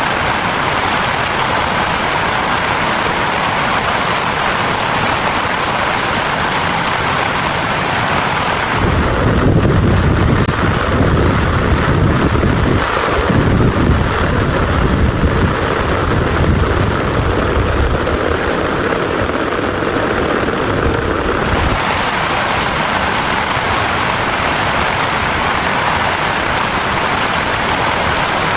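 Heavy rain falling steadily. About a third of the way in, a long low rumble of thunder rolls in and lasts about twelve seconds before fading back into the rain.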